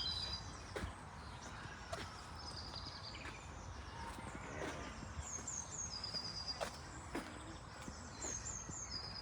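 Small birds chirping: short high phrases of about three quick falling notes, repeated every few seconds, over a low background hum, with a few light clicks.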